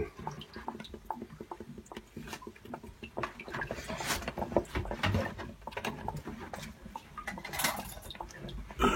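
Ferroli Optimax HE Plus 31C combi boiler gurgling and spluttering in irregular pops and splashes as water still left inside it drains out into a tray.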